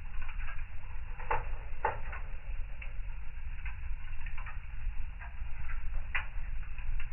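Wood fire in a fireplace crackling: irregular sharp pops and snaps over a steady low rumble of the flames, with two louder pops close together about a second and a half in.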